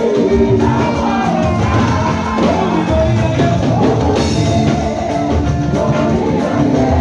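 Church choir singing with a band accompaniment and a drum kit.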